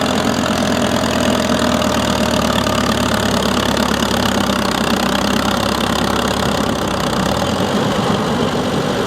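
Antique farm tractor engine running steadily at a low, even speed, with no revving; its deepest note shifts about seven seconds in.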